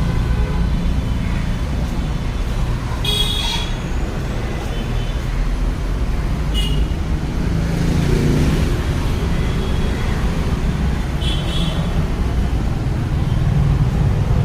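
Steady rumble of road traffic, with short high-pitched vehicle horn toots about three times.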